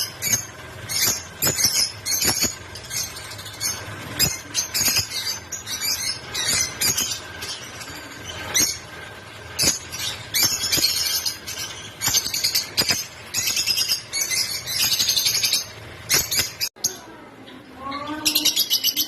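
Lovebirds chirping and squeaking in rapid, shrill, overlapping bursts. Near the end the sound cuts off abruptly, a few lower gliding calls follow, and then the chirping resumes.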